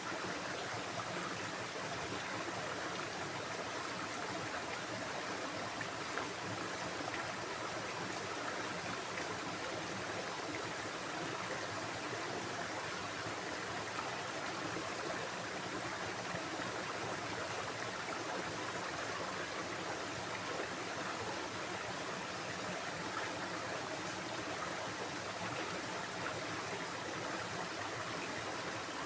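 Stream of water flowing steadily: an even, unbroken rush with no separate events.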